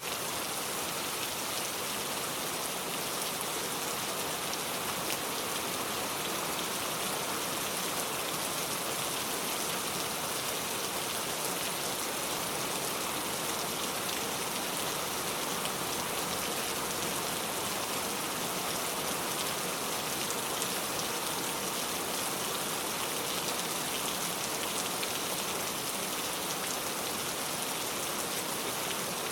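Steady rain falling, an even hiss with the patter of many drops on surfaces.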